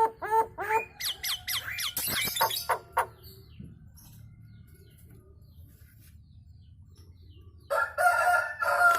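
Nias hill myna chattering: a quick run of rising whistled notes and sharp clicks, then a few seconds' pause, then one long drawn-out call near the end.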